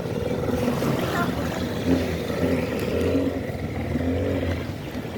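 Motorboat engine running steadily, a continuous low hum.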